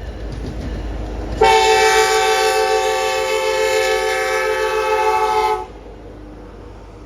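Diesel locomotive's multi-chime air horn sounding one long, steady blast of about four seconds, starting a second and a half in and cutting off sharply, over a low rumble of the train.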